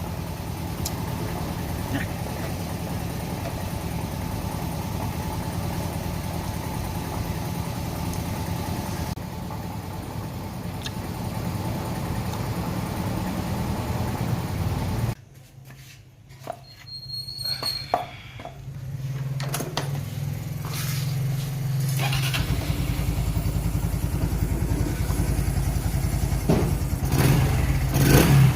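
Small motorcycle engine running steadily. It cuts off suddenly about halfway through, a few clicks follow, and then an engine runs again, getting louder near the end.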